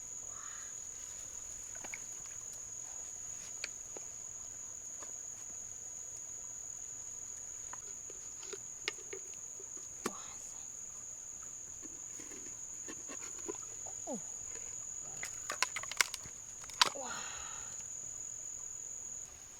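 An insect trilling in one steady, unbroken high tone that stops shortly before the end. Scattered sharp clicks and knocks sound over it, thickest about three-quarters of the way through.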